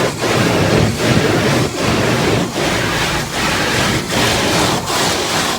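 Automatic car wash working on the truck, heard from inside the cabin: a loud, continuous rushing of water and equipment against the body, pulsing regularly a little more than once a second.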